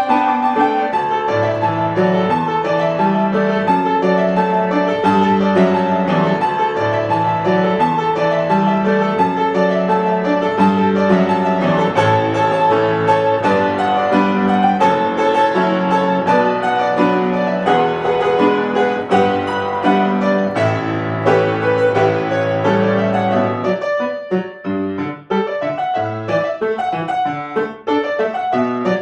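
Solo piano playing a piece with a full, continuous texture over a moving bass line; about 24 seconds in, the playing thins out into short, detached notes.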